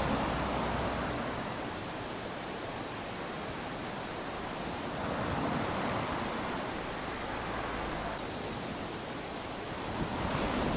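Small sea waves lapping onto a sandy shore: a steady hiss of surf that swells with each wash. One wash is loudest at the start, another about halfway through, and a third builds near the end.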